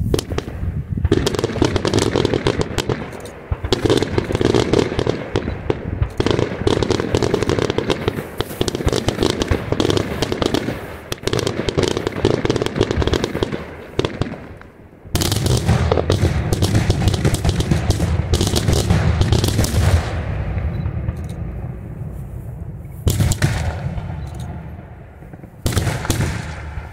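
Daytime aerial fireworks firing in rapid, dense volleys of bangs and crackle. One long run of reports fills most of the first fourteen seconds. A louder barrage starts suddenly about fifteen seconds in and fades out over the next several seconds, and two shorter volleys come near the end.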